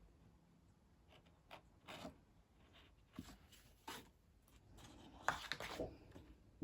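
Faint scratchy strokes of an ink-loaded stick drawn across watercolour paper, a few short marks with a denser run of scratching about five seconds in.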